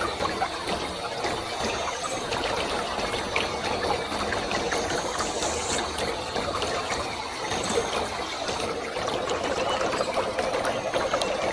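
Waterfall: water falling and splashing in a steady rush, with many small crackling splashes throughout.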